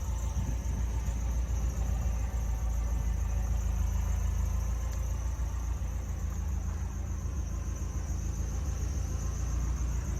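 1978 Ferrari 308 GTS's 2.9-litre carbureted quad-cam V8 idling steadily through its ANSA four-exit exhaust, warming up after a cold start.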